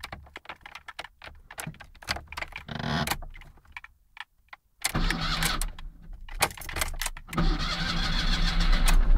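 Keys jangling and clicking in the ignition of a Fiat Cinquecento 700, then its two-cylinder engine is cranked and starts from about five seconds in, running and growing louder toward the end.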